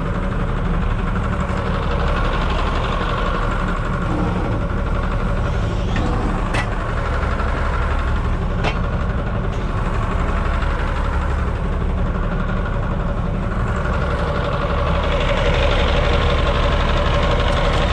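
Heavy truck engine running steadily at a low idle, with two short metallic clicks partway through and a slight rise in level near the end.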